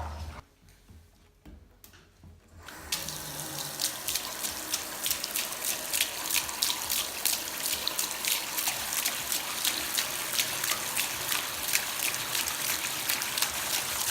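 Water running steadily with many small irregular splashes, like a tap running into a sink. It starts about three seconds in, after a near-quiet opening.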